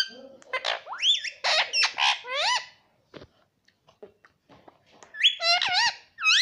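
Pet parrot making a quick run of high, wavering calls, then a pause of about two seconds, then another run near the end.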